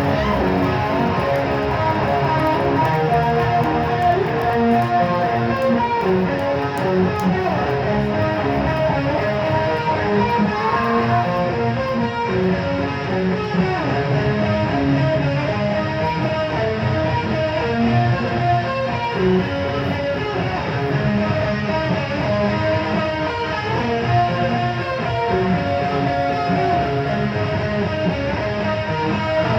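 Heavy metal band playing live in an arena: a held, sliding electric guitar lead melody over distorted rhythm guitar, bass and drums.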